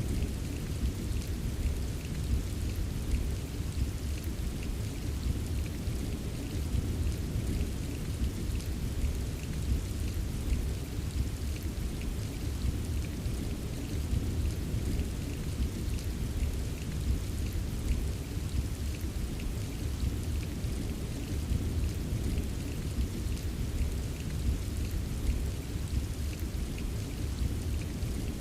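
Steady rain with a dense patter of small drop taps over a continuous low rumble, as of distant rolling thunder. It stays even throughout, with no single thunderclap.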